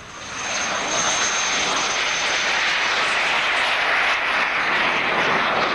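Engine of a display aircraft passing overhead. The noise swells within the first second to a loud steady level, with a thin high whine over the first half.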